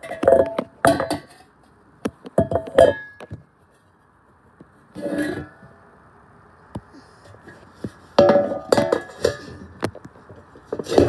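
Hard objects clinking and rattling against each other as they are handled and set down, in five separate bursts.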